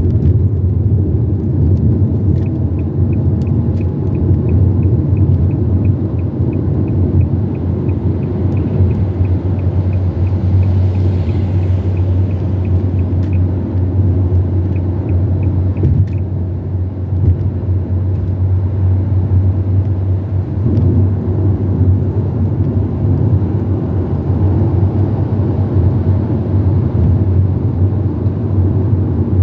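Car driving along a highway, heard inside the cabin: a steady low rumble of road and engine noise. A faint regular ticking, about two a second, runs through the first half.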